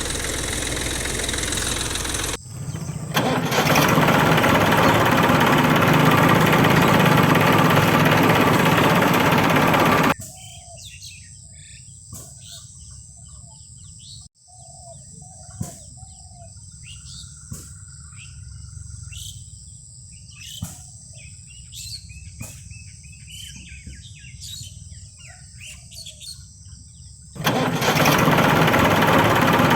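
The small motor of a DIY model tractor runs loudly and steadily, then cuts off about ten seconds in. Birds chirp with scattered clicks over a faint background until the motor starts running again near the end.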